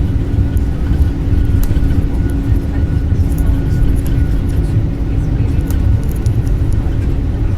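Airliner cabin noise during a night landing at Manila: a steady, loud low rumble of the jet's engines and airflow with a continuous hum, and faint scattered ticks and rattles from the cabin.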